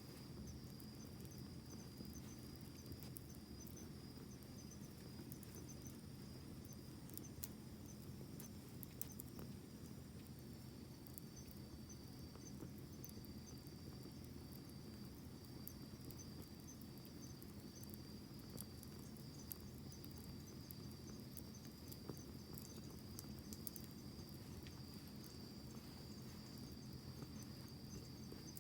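Faint steady chirring of crickets, with scattered small crackles from a wood campfire.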